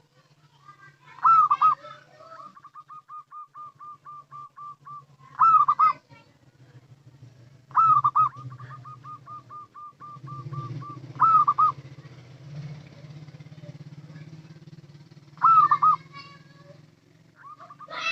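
Zebra dove (perkutut) calling: about five loud, short cooing phrases, with a fast run of soft, even coo notes, about four a second, between some of them. A low hum runs underneath.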